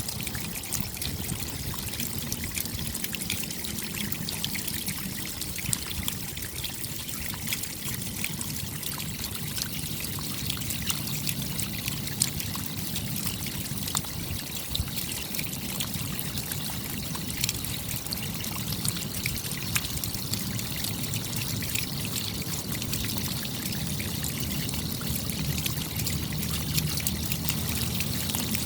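Steady rain, with a dense patter of drop taps over water running and trickling.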